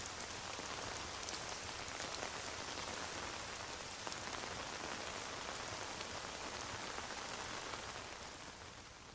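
Steady rain falling on a surface, with many small drop ticks; it begins to fade out about a second before the end.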